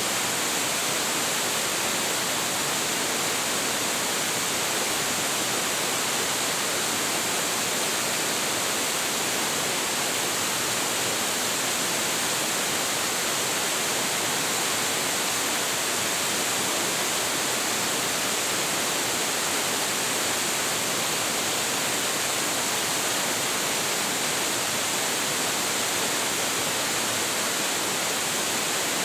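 Large waterfall pouring steadily: an even, unbroken roar of falling water.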